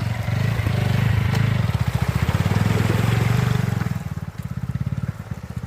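Motorcycle engine running as the bike rides along, with steady, even firing pulses; it eases off and gets quieter about four seconds in.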